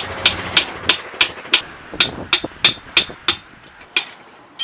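Hammer striking a metal part, a steady run of sharp ringing blows about three a second.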